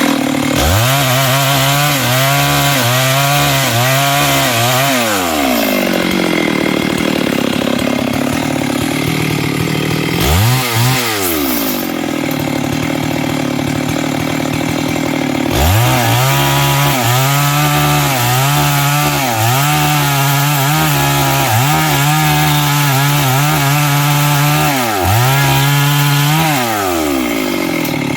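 Stihl MS 382 two-stroke chainsaw cutting through big wood. It revs up and runs at high speed under load for several seconds, then drops back to idle. It blips once and idles, then runs at full throttle under load for about ten seconds before easing off near the end.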